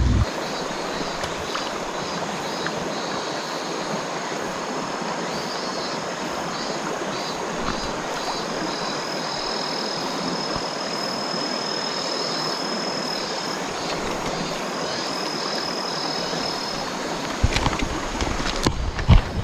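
River water rushing steadily, with a thin high buzz that pulses at first and then holds for several seconds at a time. Near the end, a few low knocks and clicks come in.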